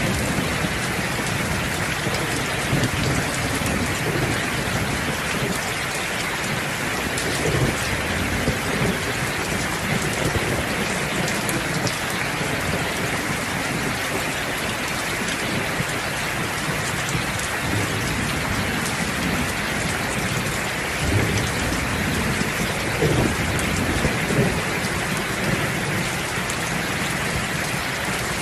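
Steady downpour of rain with low thunder rumbling now and then, most clearly in the first third and again about three quarters of the way through.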